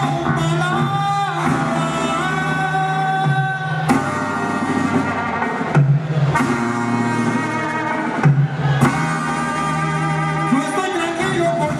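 Mexican banda brass band playing live: held brass melody lines over a steady bass and drums, with a few sharp percussion hits.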